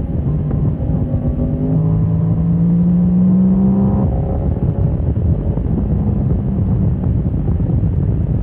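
Motorcycle engine accelerating, its note climbing for about two seconds before it cuts off suddenly about four seconds in, then running on at lower revs. Heavy wind rumble on the microphone throughout.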